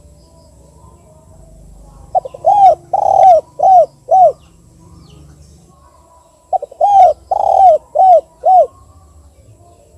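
Spotted dove (tekukur) giving its 'kuk 2' type call twice, about four seconds apart. Each phrase opens with a quick short note, then runs into four or five coos that rise and fall in pitch, the second or third held longest.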